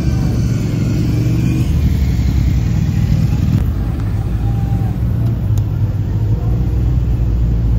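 Low, steady engine and exhaust note from sports cars rolling slowly past: first a Lamborghini Huracán Spyder's V10, then, after an abrupt change a little under halfway, a Nissan Skyline R34 sedan's engine.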